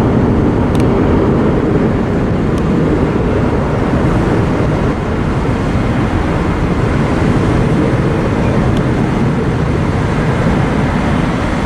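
Jet airliner's engines at takeoff power during the takeoff roll: a loud, steady rushing noise that holds throughout.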